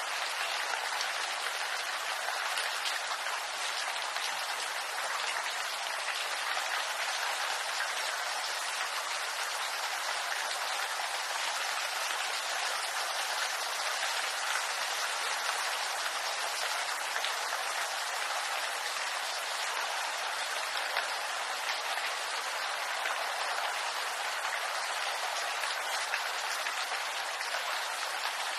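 Steady rain falling on bamboo foliage: a dense, even patter of drops on leaves.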